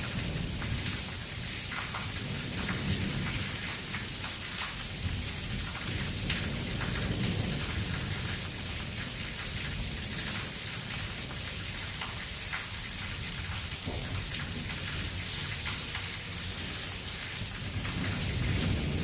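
Heavy thunderstorm rain falling steadily, with thunder rumbling low in the background and swelling a few times.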